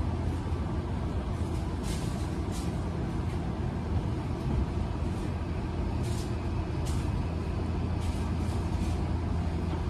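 Cabin running noise of a Tokyo Metro 18000 series electric train: a steady low rumble of wheels on rail, with two pairs of short hisses, about two seconds in and about six seconds in.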